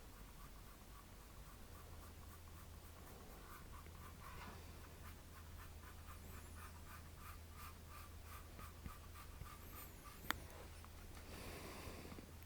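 Faint scratching of a paintbrush dabbed and stroked repeatedly over a canvas, a few strokes a second, with a single sharp click about ten seconds in and a low steady hum underneath.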